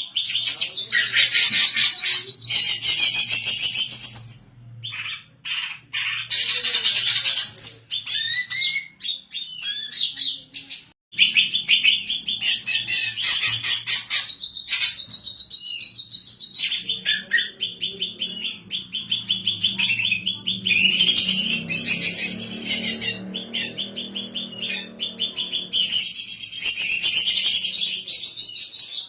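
Female greater green leafbird (cucak ijo) singing in long, rapid runs of chirps and warbles, with short breaks about four and eleven seconds in.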